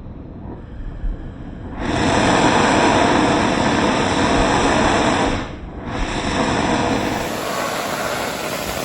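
Oxy-fuel cutting torch giving off a loud, steady rushing hiss. It starts about two seconds in, breaks off briefly about halfway, then resumes.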